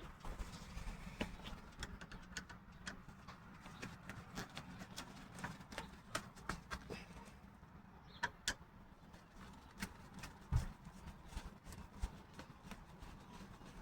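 Faint, scattered clicks and light metallic taps as old door lock and latch hardware is handled and taken off a metal door, with a few sharper clicks past the middle.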